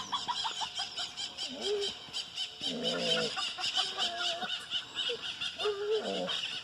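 Farmyard fowl giving several short calls, over a fast, even high-pitched chirping that runs on at about six beats a second.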